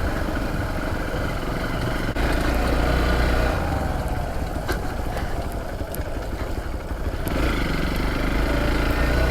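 Dirt bike engine running on a dirt track, its note shifting about two seconds in and again near seven seconds.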